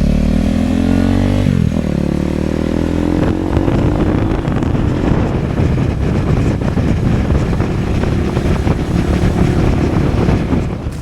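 Motorcycle pulling away, its engine pitch rising, dropping at a gear change about a second and a half in, then rising again; after a few seconds heavy wind noise on the microphone covers the engine as speed builds.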